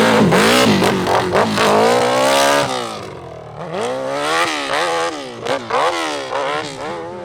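Open-class hillclimb motorcycle engine revving hard, its pitch swinging up and down as the rider works the throttle. After about three seconds it drops quieter and goes into a series of short, sharp revs.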